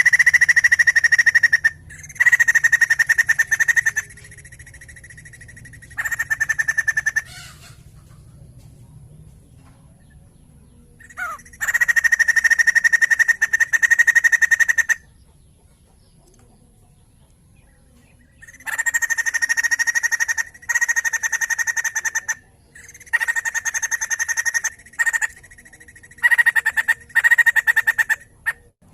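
White-crested laughingthrush (poksay jambul) calling in loud bursts of rapid chattering notes, each burst lasting one to three seconds, about eight in all with pauses between.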